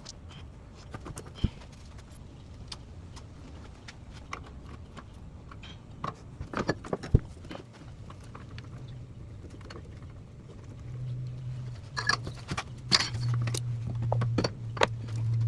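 Irregular clicks, clinks and knocks of hand tools and parts being handled while disconnecting wiring and lines in a car's engine bay, with a low steady hum coming in about eleven seconds in.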